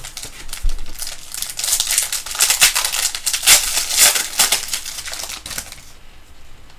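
Crinkling and rapid clicking of a foil trading-card pack wrapper and cards being handled. It lasts about six seconds and fades out near the end.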